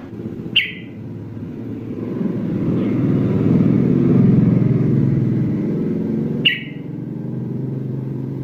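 An engine running, swelling to its loudest about halfway through and then easing off, with two short sharp clicks.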